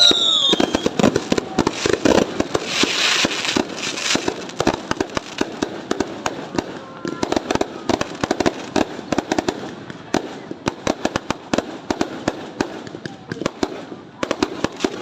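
New Year fireworks going off in a dense, rapid run of pops and crackles, heaviest in the first few seconds and thinning somewhat after. A short falling whistle sounds at the very start.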